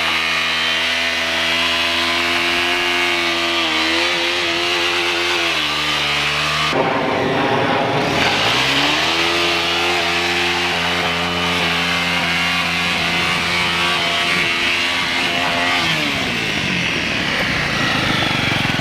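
Motorcycle engine held at high revs. The revs sag for a moment, then after a sudden break about seven seconds in they climb back and hold steady, and they drop away near the end.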